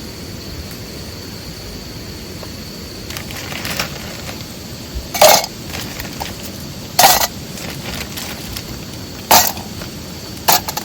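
Four short, loud, sharp cracks about two seconds apart, over a steady background hiss with a faint high steady tone.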